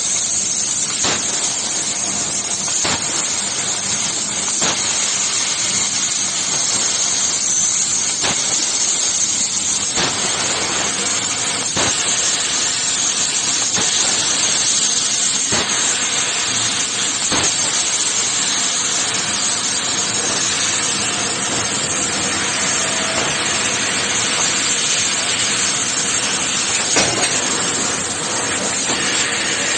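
CNC metal cutting machine running with a steady, loud hiss, strongest in the high register, with scattered sharp clicks through it.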